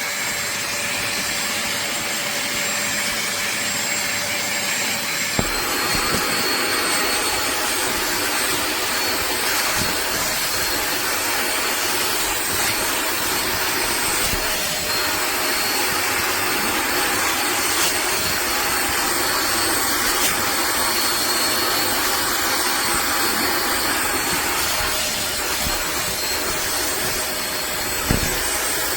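HAUSHOF StainZapper 400 W upholstery water vacuum running steadily with a whining motor note; its sound shifts about five seconds in, and there is a brief knock near the end.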